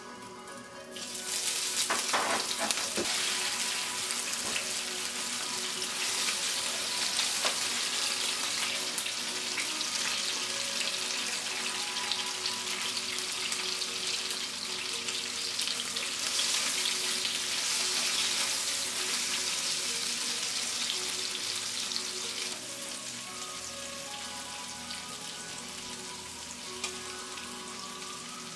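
Asparagus spears sizzling in a hot oiled frying pan, the sizzle starting suddenly about a second in as they go into the oil and easing off somewhat near the end. Faint background music underneath.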